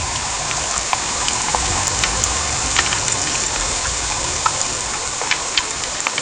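Heavy rain falling: a steady hiss with many sharp drip ticks scattered through it and a low rumble underneath.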